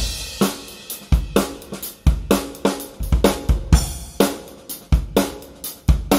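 Drum kit playing a groove, with deep bass drum hits, sharp snare strokes and cymbals.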